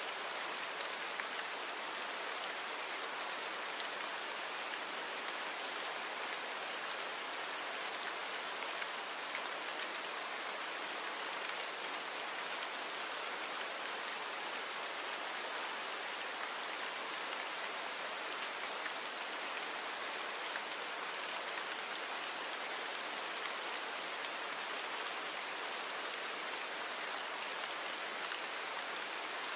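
Steady rain falling on a surface, an even hiss of many drops with no pauses or changes.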